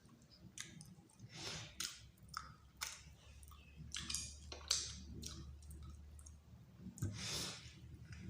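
Close-up eating sounds: a mouthful of rice and meat being chewed, with a string of sharp wet clicks and smacks from the mouth.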